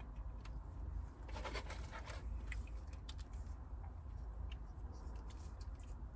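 Chewing and crunching on a fried cream cheese rangoon, with scattered small clicks and crinkles, over a steady low hum inside a car.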